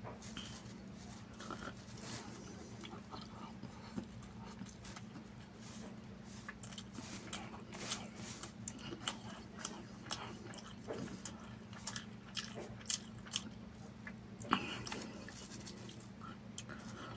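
Close-up mukbang eating sounds: a person chewing chicken biryani, with many short, soft mouth clicks and smacks and fingers picking at the rice. A steady low hum runs underneath.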